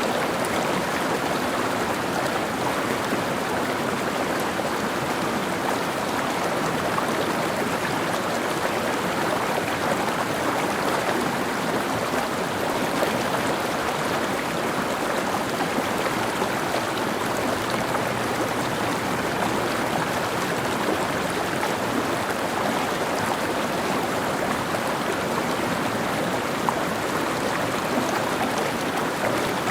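Mountain stream flowing steadily, the water rushing and babbling over rocks.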